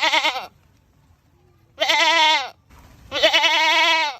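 A goat screaming three times: loud, wavering, human-like bleats. A short one ends about half a second in, another comes about two seconds in, and a longer scream runs to the end. A brief breathy sound comes just before the last one.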